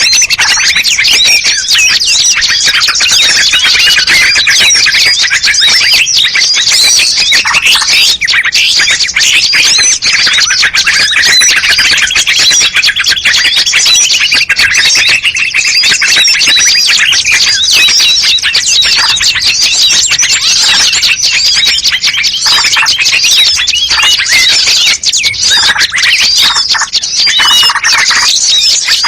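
Bird-luring recording: a dense, loud, unbroken chorus of rapid chirps, twitters and squawks from small songbirds, with many calls overlapping.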